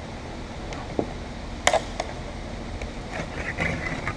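Metal cutting tool scraping and scratching against the car roof's metal pinch weld while cutting through the urethane glue under the roof glass. There are sharp clicks, a loud one under two seconds in, then scratchy rasping near the end.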